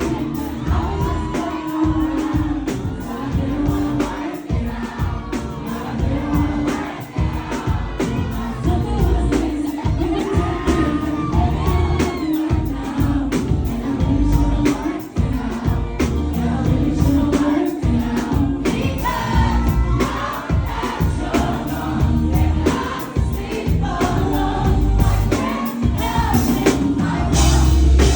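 Live pop music: a singer's voice over a loud backing track with heavy bass and a steady drum beat.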